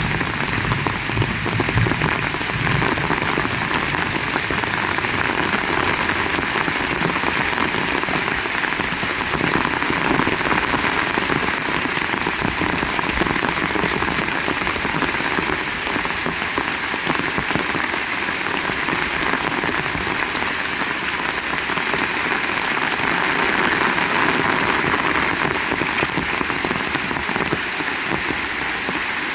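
Heavy rain pouring steadily, a dense, even hiss of rain on surfaces that does not let up.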